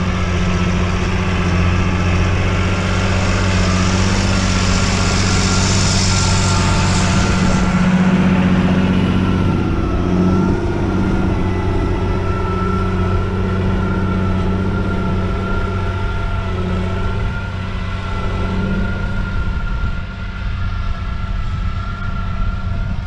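John Deere 8400 tractor's six-cylinder diesel running steadily under load, with a steady high whine over the engine.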